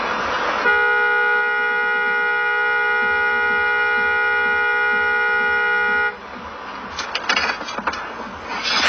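Car horn held steadily for about five seconds, starting just under a second in, then cut off suddenly. Road noise before it, and a few short knocks after it.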